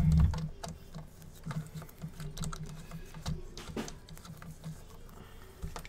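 Light, irregular clicks and taps of small tools and parts being handled while an iPad is taken apart, with a louder low thump right at the start.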